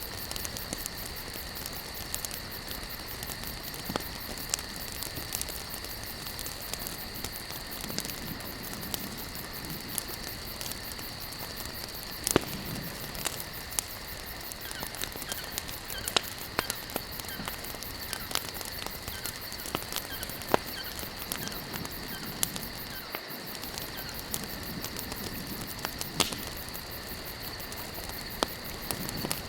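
Wood campfire crackling, with sharp pops scattered throughout, over a steady high-pitched chirring of crickets.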